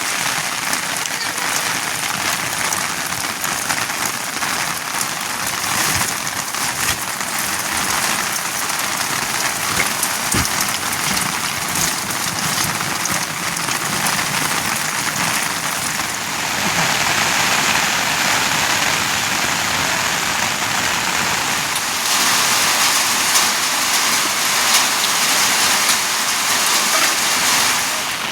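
Steady rain falling, a dense patter of countless drops. It grows louder about halfway through and again near the end.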